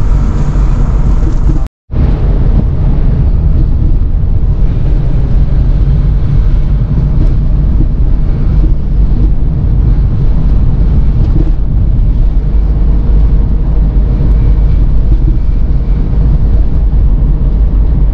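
Air-cooled Porsche 930 Turbo's flat-six engine and road noise heard inside the cabin while driving: a steady, loud low rumble. The sound cuts out completely for a moment about two seconds in.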